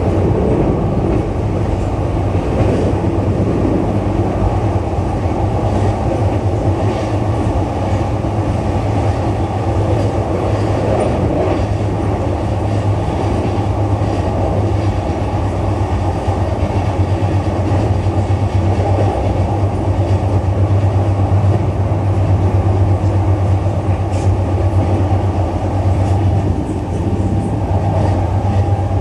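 Interior running sound of a JR East E233-3000 series electric multiple unit travelling steadily: continuous wheel-on-rail rumble over a steady low hum, with faint occasional clicks from the track.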